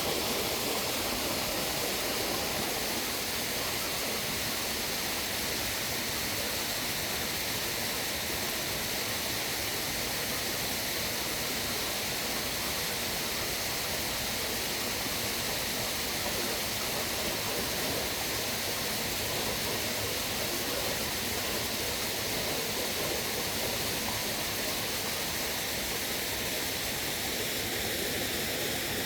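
Steady rush of flowing water from a stream, an even, unbroken noise.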